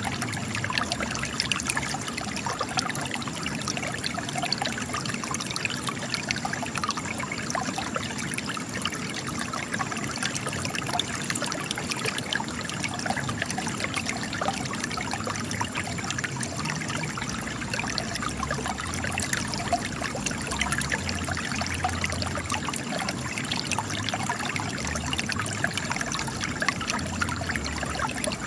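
Spring water trickling and splashing steadily as it gushes from cracks in rock.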